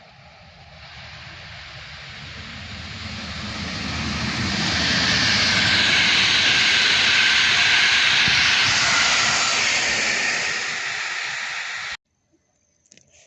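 Train passing by on the rails with a rushing rumble and hiss. The noise builds over about five seconds, holds loud for several seconds, then cuts off suddenly near the end.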